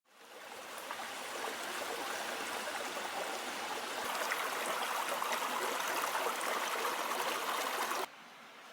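A river's murmuring flow, a steady rush of water. It fades in at the start and cuts off abruptly shortly before the end, leaving a much fainter outdoor ambience.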